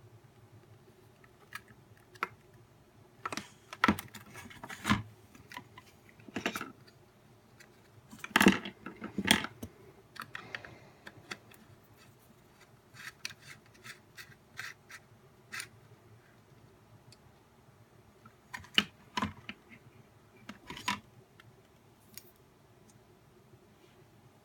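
Irregular clicks, taps and knocks of a nail dust collector's parts being handled and worked loose during disassembly, coming in small clusters with the loudest knocks a little past a third of the way in.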